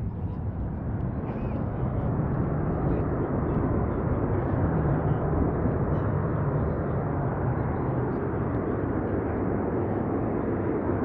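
Several F/A-18 Super Hornet jet engines running steadily on the runway before takeoff, a continuous deep rumble that grows a little louder about two seconds in.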